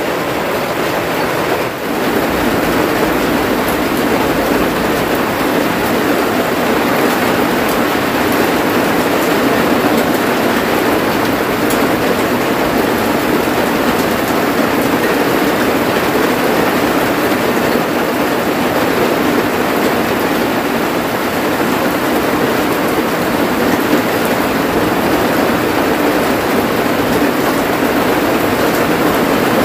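Heavy rain pouring down steadily, heard from inside a wooden hut.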